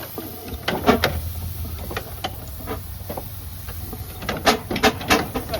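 Burrell steam traction engine working under way, with irregular sharp knocks and chuffs over a low rumble, bunched about a second in and again near the end.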